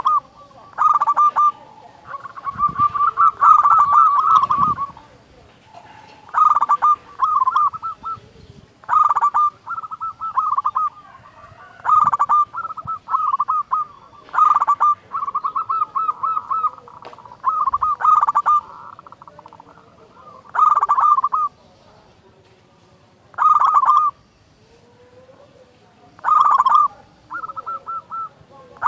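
A zebra dove (local perkutut) singing: about a dozen phrases of rapid, staccato cooing notes, with a pause of a second or two between phrases.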